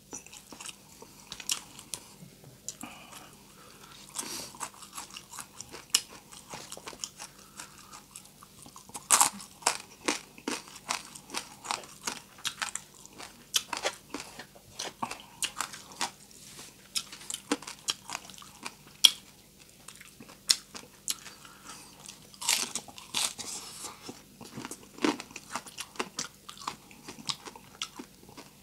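A person chewing and crunching crispy deep-fried pork with rice: a dense run of sharp crackling crunches in bouts.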